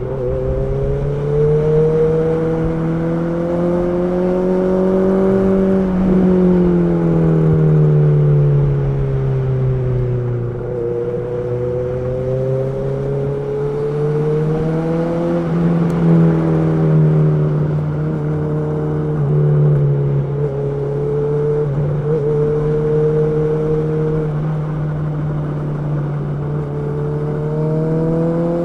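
Honda CB650R's inline-four engine running under way, its note rising and falling smoothly as the throttle is opened and closed, with a couple of sudden steps in pitch as gears change.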